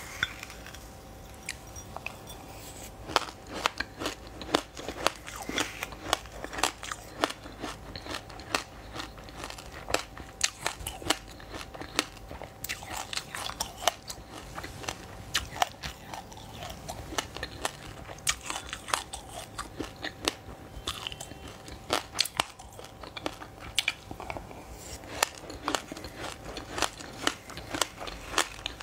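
Close-up crunching and chewing of a mouthful of sesame seeds and buckwheat with frozen passion fruit: a dense run of sharp, irregular crackles. A faint steady hum lies underneath.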